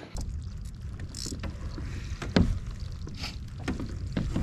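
Wind rumbling on the microphone, with scattered clicks and knocks and two short high hisses from a fishing rod and reel being handled while the drag is checked.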